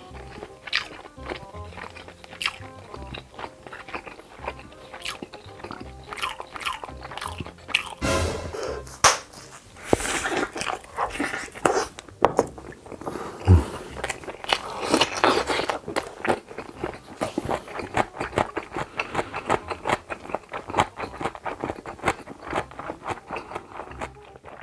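Close-miked eating sounds: crunching bites and chewing of radish kimchi and rice, with wet lip smacks, over soft background music.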